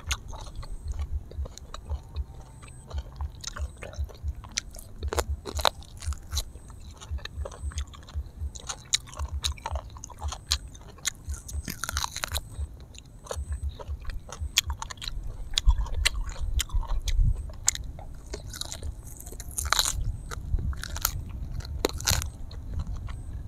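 Close-miked chewing and biting of grilled honey duck eaten by hand: steady wet chews with crunches and sharp clicks, and louder bites about halfway through and again near the end.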